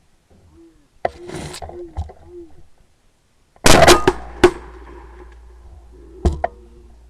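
Shotgun shots: two close together near the middle and another near the end, each a loud crack with a ringing tail. About a second in there is a fainter sharp report followed by a few short calls.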